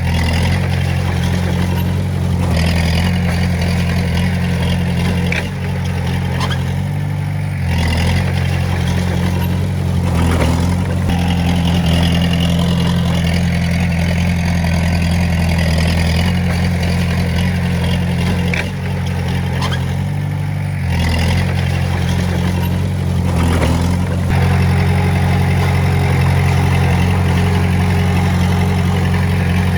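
Diesel engine of a Komatsu D20A bulldozer running steadily while working, its pitch and loudness shifting every few seconds as the load changes.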